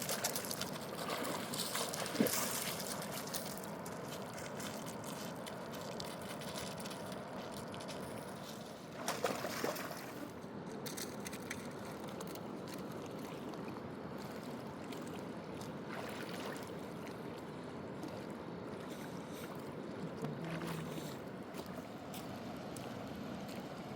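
Steady river water noise around a small boat, with a few brief splashes and knocks, around two seconds in, at nine to ten seconds, and near the end.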